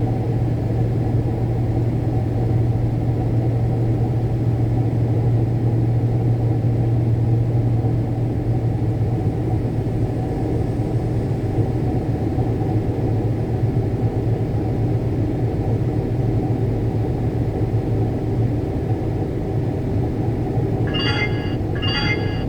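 Combine harvester running with a steady mechanical drone; a strong low hum in it fades away over the last few seconds. Two short electronic beeps sound just before the end.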